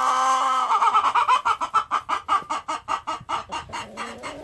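A hen calls with one drawn-out, wavering note, then a fast run of short clucks, about five a second, that fades away.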